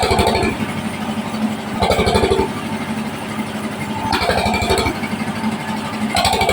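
Engine-driven band saw running steadily with an even low pulse, cutting waru wood into 3x4 cm strips. A louder, higher cutting sound swells for about half a second roughly every two seconds, four times.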